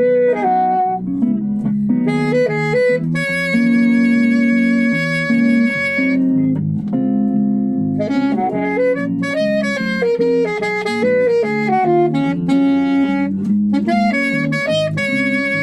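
Saxophone playing a melody over electric guitar and bass, with long held notes between quicker runs: an instrumental trio at rehearsal.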